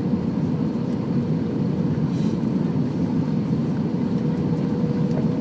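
Airbus A319 cabin noise: a steady rush of engines and airflow, with a faint steady whine.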